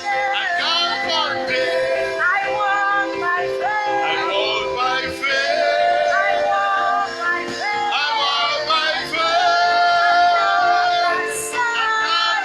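Worship song: singing, mostly a female voice, held and gliding notes over instrumental accompaniment.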